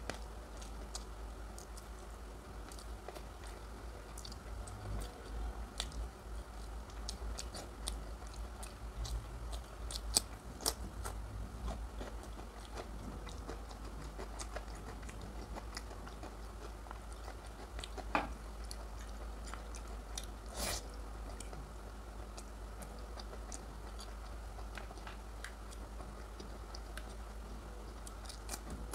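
A person chewing curry and rice close to the microphone, with many scattered soft wet mouth clicks and smacks, a few louder ones about ten, eighteen and twenty-one seconds in. A steady low hum runs underneath.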